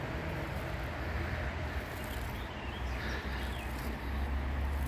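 Steady outdoor background with a low rumble underneath, and faint bird chirps about halfway through.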